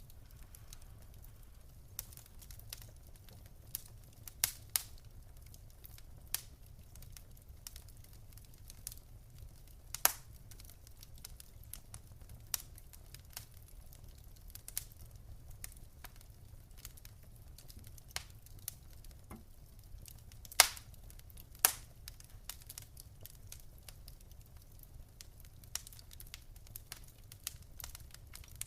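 Wood fire crackling in a fireplace: scattered sharp pops and snaps over a low steady rumble of the flames, with the loudest pops about ten seconds in and twice more just past twenty seconds.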